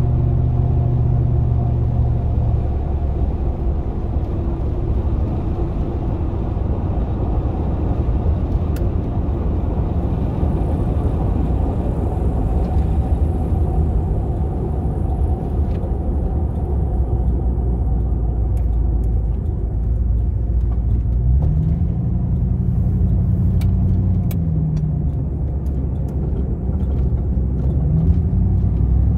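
GMC Vandura / Chevy G20 van's V8 engine running while driving, under a steady low rumble of road noise. The engine note rises and falls in pitch about two-thirds of the way through, as with a stretch of acceleration and easing off.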